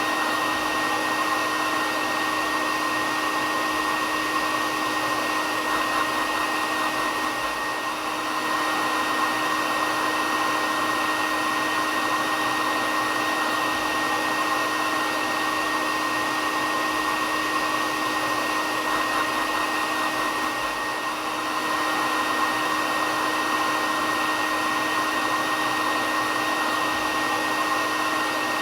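Hair dryer running steadily: an even rush of blown air with a steady whine and a lower hum, dipping slightly twice.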